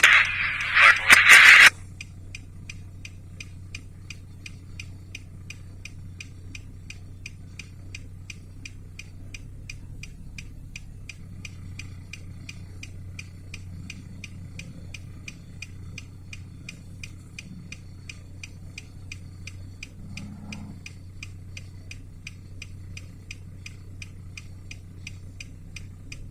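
A loud rush of noise lasting under two seconds, then faint regular ticking over a steady low hum.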